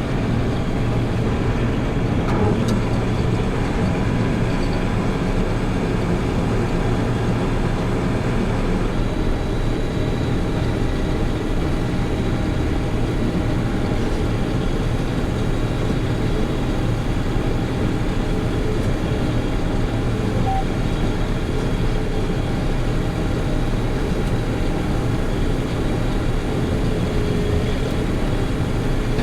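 Combine harvester running steadily while harvesting soybeans: an even, continuous drone of engine and threshing machinery.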